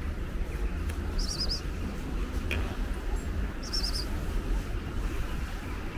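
A small bird twitters in two short, quick trills of high chirps, about a second in and again near four seconds, over a steady low outdoor rumble.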